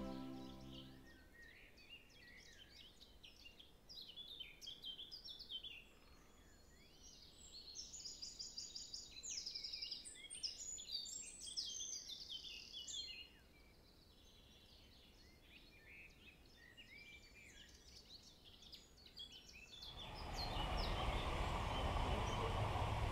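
Songbirds singing and chirping, many short high calls overlapping, busiest through the middle. About three quarters of the way in, a steady rushing noise rises and becomes the loudest sound.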